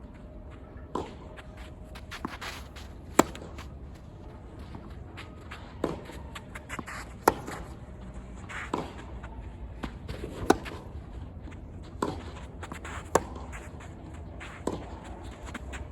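Tennis balls struck with rackets in a rally, sharp pops about every one and a half seconds with a few softer bounces and footsteps on the court between them.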